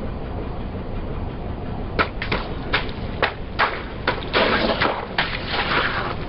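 A car tyre rolling onto and crushing crunchy objects: a run of sharp cracks and snaps starting about two seconds in, then denser crackling toward the end, over the car's low steady engine hum.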